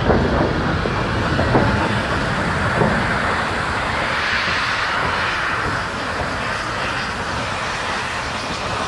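A train running along the track, a steady rumbling noise with no clear beat.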